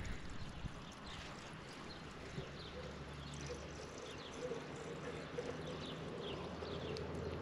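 Faint outdoor background: scattered short bird chirps over a low steady hum that sets in about three seconds in.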